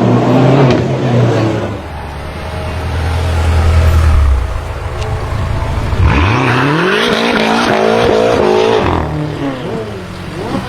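Tuned BMW performance car engine revving. It runs loud at first, then a low drone swells, and about six seconds in it revs hard, its pitch climbing steadily for about three seconds before it drops off.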